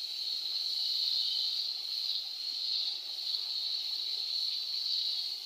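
Onion, tomato, spice and yogurt masala sizzling in hot oil in an aluminium pot, a steady hiss as the yogurt's water cooks off.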